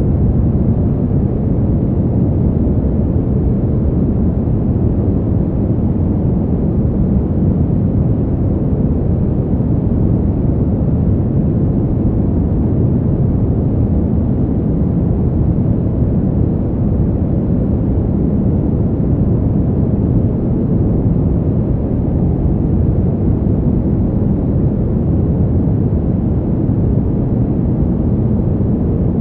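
Cold winter wind ambience: a steady, deep rushing noise with no gusts, breaks or separate events.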